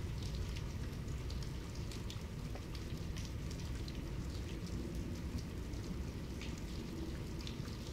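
Steady medium-to-heavy rainfall: a continuous hiss of rain with many separate drops striking sharply close by.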